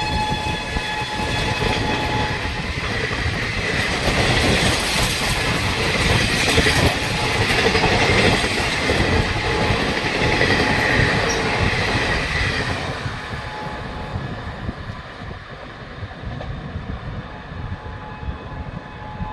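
An express train passing at speed. Its horn sounds over the first couple of seconds, then the coaches clatter over the rail joints, loudest in the middle, and the sound fades as the train draws away. The horn sounds faintly again near the end.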